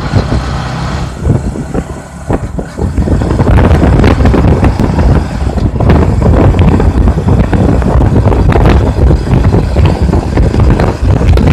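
Honda CBF 125's single-cylinder four-stroke engine pulling hard under full throttle as the bike accelerates toward its top speed, mixed with wind rush. It grows louder over the first few seconds, then holds steady and loud.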